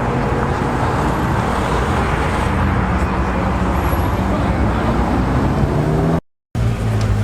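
Car engines idling and running amid street traffic, a steady low engine hum over road noise. The sound drops out for a moment near the end, and a deeper engine note follows.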